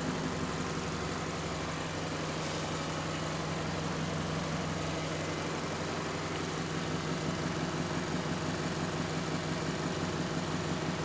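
Alexander Dennis Enviro400 MMC double-decker bus's diesel engine idling steadily, a low even hum.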